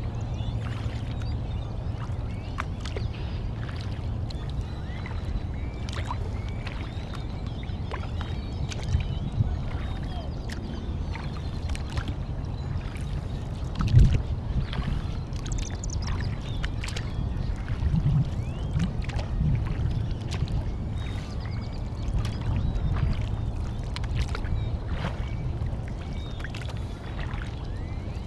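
Paddling a kayak on a lake: water splashing and dripping off the paddle, with small clicks and knocks and one louder thump about halfway through.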